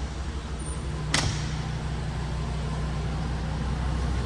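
Ford E-450 ambulance's 6.8L V10 gas engine idling with a steady low hum, and a single sharp click about a second in.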